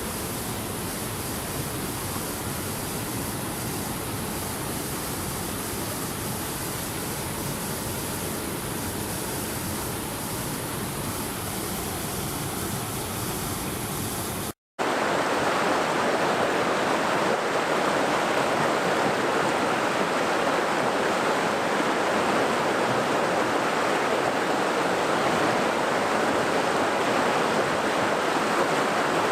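Steady rushing water, like a waterfall or fast stream. It cuts off for a moment about halfway through and comes back as a louder, brighter rush of water.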